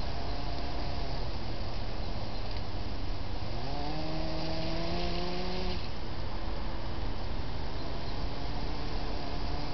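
Drive motor of a Kyosho Blizzard radio-controlled model snow groomer whining, rising in pitch as it speeds up for about two seconds midway and then cutting off suddenly, over a steady background hiss and low hum.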